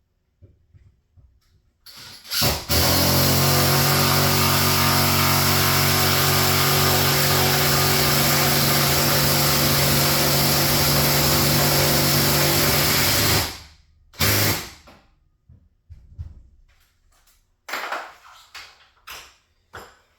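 Garage door opener motor running the door steadily for about eleven seconds, starting with a short burst and stopping abruptly, followed by a brief second burst and a few light knocks.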